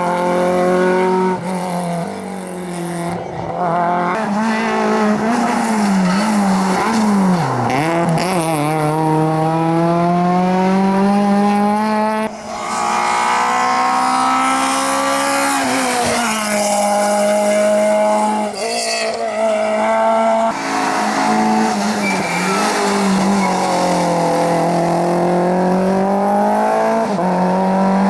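Rally car engines revving hard, in a string of short clips. The pitch climbs under acceleration and drops on braking and downshifts, with abrupt cuts every few seconds.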